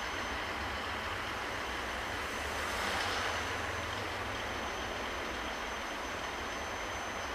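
Shinkansen train running, a steady rushing noise that swells briefly about three seconds in.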